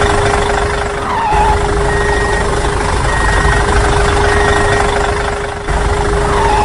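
Small motor of a DIY mini tractor running steadily with a constant whine, with three short high beeps about a second apart in the middle.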